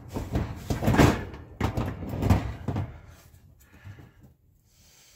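GE oven door being fitted back on the oven, its new hinge arms knocking into the slots in the oven frame: a run of metal clunks and knocks, the loudest about a second in, dying down after about three seconds.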